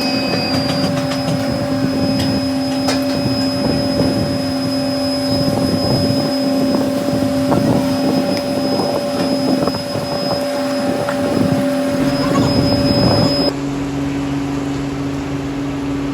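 Workshop machinery running with a steady hum and irregular clattering and metallic ticks. Near the end the sound changes abruptly to a different steady machine hum.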